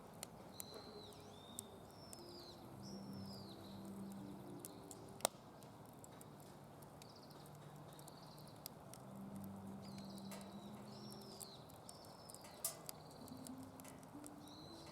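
Wood fire burning in a DOD Mecha Moe Fire fire pit, crackling with scattered small pops and one sharp, louder pop about five seconds in.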